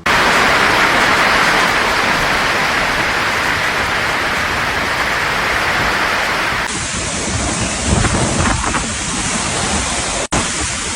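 Loud, steady rush of water. About seven seconds in the sound changes abruptly to a duller water noise with low rumbles, and it cuts out briefly near the end.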